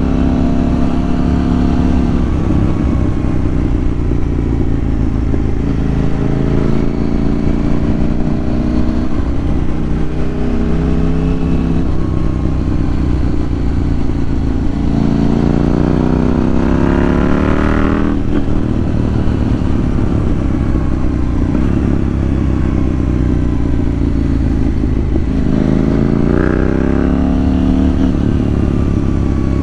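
KTM 790 Duke's parallel-twin engine running on the move, mostly holding steady revs, with two accelerations where the pitch rises, about halfway through and again near the end.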